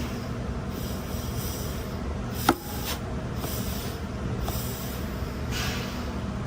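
Short hisses of compressed air from an air hose blown into the apply holes of an automatic transmission's clutch drum to air-check the clutch pistons, with one sharp click about two and a half seconds in, over steady low background noise.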